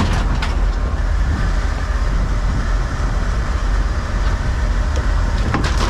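Boat engine running steadily with a low drone, under wind and water noise.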